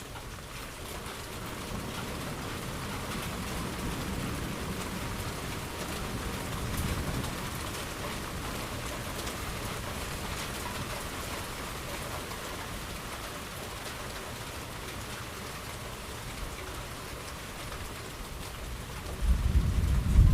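Steady rain hissing on the ground under a thunderstorm, with a low rumble of thunder in the first half. Near the end a louder, deeper thunder roll suddenly begins and keeps building.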